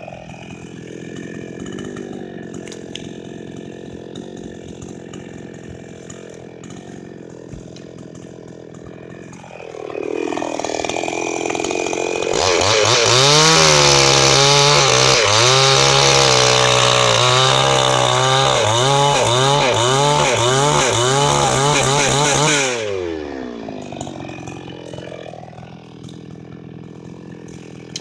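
Chinese-made petrol chainsaw idling, then revved up about ten seconds in and held at high speed for about ten seconds, its pitch dipping again and again as the chain bites into the wood, before dropping back to idle.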